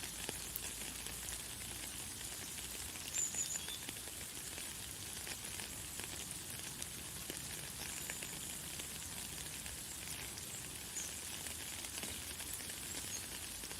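Light, fine rain falling steadily, an even high hiss with a patter of small drops. A few short, high bird chirps come through, the clearest about three seconds in.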